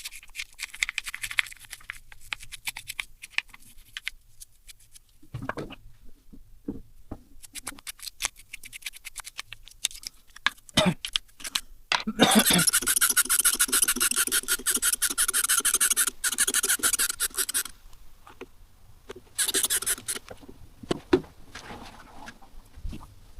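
Clicks and knocks of small metal parts and hand tools being handled, with about five seconds of fast, even rasping or ratcheting strokes in the middle.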